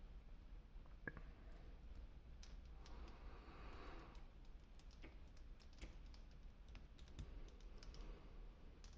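Faint, scattered clicks and soft rustling from plastic toy packaging or action-figure parts being handled.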